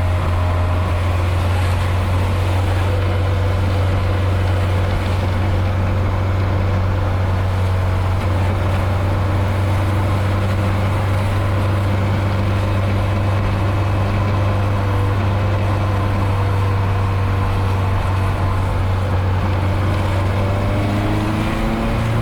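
Nissan 240SX engine and exhaust droning steadily at a constant speed, heard from inside the car. The exhaust is leaking; the driver thinks he has blown a bigger hole in it. Near the end the pitch rises as the engine picks up revs.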